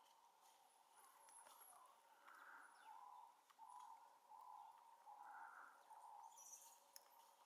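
Faint bird calls. A short note repeats about every three seconds, and in the middle comes a run of five lower notes, a little under a second apart.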